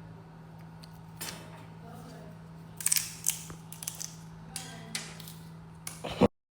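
Scattered sharp clicks and short rustles over a steady low hum, ending in an abrupt cut to silence.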